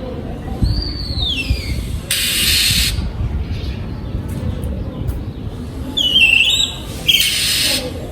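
Oriental magpie-robin singing: a clear whistled note sliding down in pitch about a second in, then a quicker, more varied whistled phrase past the middle. Two short bursts of hiss-like noise cut in, and a low rumble runs underneath.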